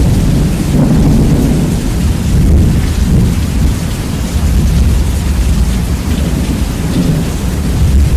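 Rain falling steadily under a continuous deep rumble of thunder, bass-boosted so that the low rumble dominates and the whole sound is very loud.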